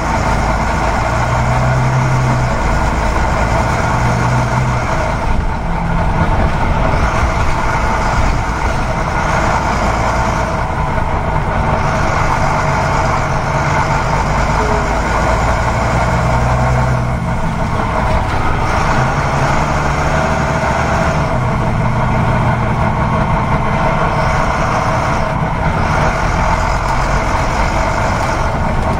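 Toy RC excavator running: a steady engine-like noise, with its motors whirring in spells of a few seconds that start and stop as the arm works.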